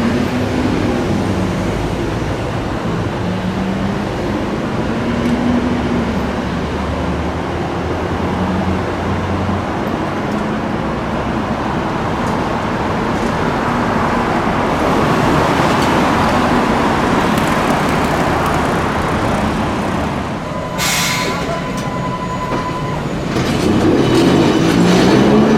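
Hiroden streetcar running, with wheel rumble and the whine of its traction motors gliding in pitch. A short steady high tone sounds for about two seconds past the middle, and near the end the motor whine rises as the tram accelerates.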